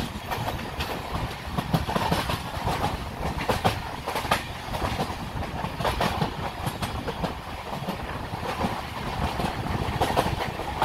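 Passenger train coach running along the track: its wheels clack over rail joints at an uneven rhythm over a steady low rumble.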